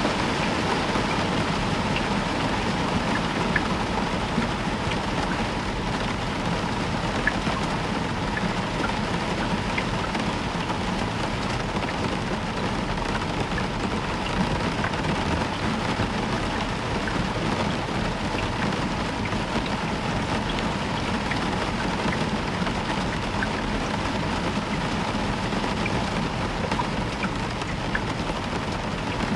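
Heavy rain falling steadily on a roof, with scattered ticks of individual drops.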